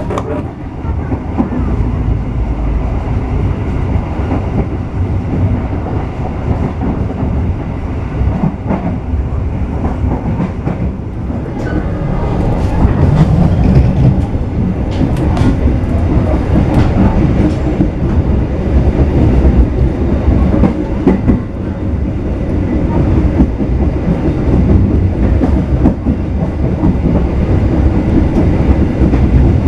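Passenger train running along the track, heard from inside a coach: a steady low rumble with wheels clattering over the rails and occasional sharp clicks.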